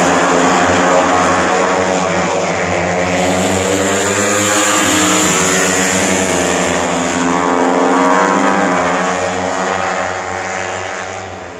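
A loud engine running steadily with a slowly shifting pitch, fading away over the last few seconds as it passes off.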